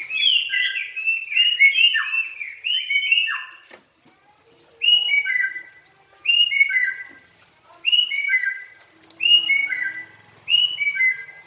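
Songbird singing: a quick run of varied whistled notes for about four seconds, then a short phrase of three or four notes stepping down in pitch, repeated five times about every second and a half.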